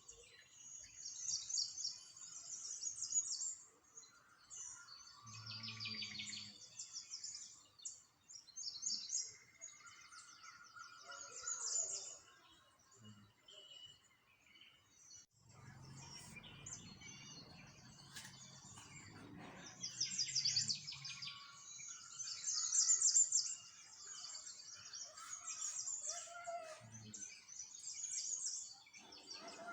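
Small songbirds chirping and twittering in quick high bursts, several overlapping. About halfway through there is a low rumble lasting several seconds.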